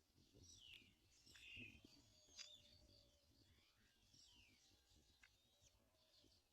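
Faint bird chirps: a few short notes that fall in pitch, spread through the quiet, with occasional soft clicks.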